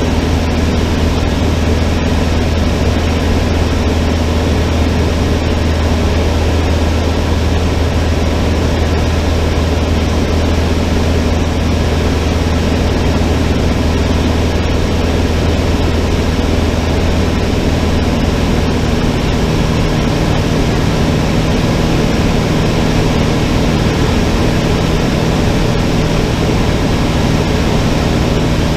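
Cessna 152's four-cylinder piston engine and propeller droning steadily in flight. The deep hum changes pitch about two-thirds of the way through.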